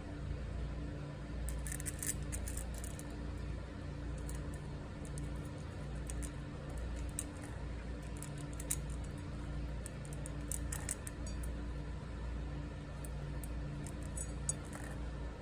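A cat crunching dry kibble: clusters of quick, sharp crunches in several bouts, over a steady low background hum.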